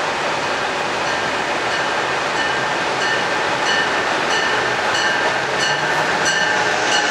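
Amtrak Acela Express high-speed trainset approaching along the platform track, its rushing noise growing. A regular high ping sounds about every two-thirds of a second from about a second in.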